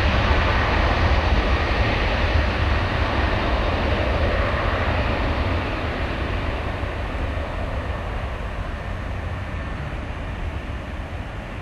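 Jet engines of an Airbus A310-300 airliner: a steady rush over a deep rumble, with a faint high whine near the start, slowly fading as the aircraft moves away.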